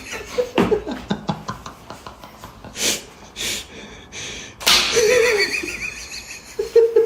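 People gasping, breathing sharply and stifling laughter, with short hissing breaths, small mouth clicks and smacks, and a couple of brief voiced noises.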